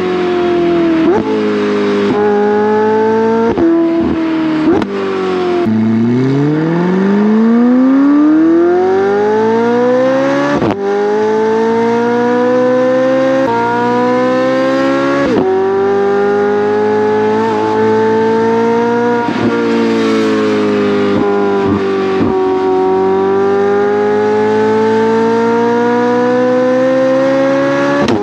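McLaren 720S's twin-turbo V8 through a valved titanium aftermarket exhaust on stock downpipes, accelerating hard through the gears. The pitch climbs and drops sharply at each upshift. About six seconds in comes one long pull from low revs, the loudest part.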